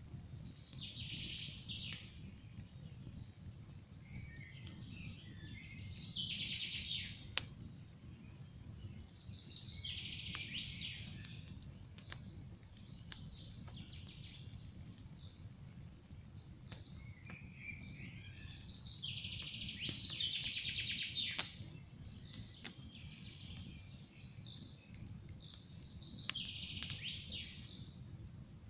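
Campfire crackling with a steady low rush and scattered sharp pops, two of them louder than the rest. Over it a songbird repeats a short, high song phrase about five times, every several seconds.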